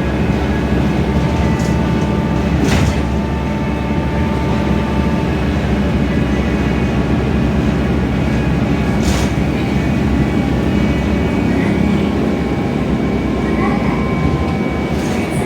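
Scania K320iA CNG city bus under way, heard from the passenger cabin: steady engine and road rumble, with a short sharp rattle about a fifth of the way in and another just past halfway.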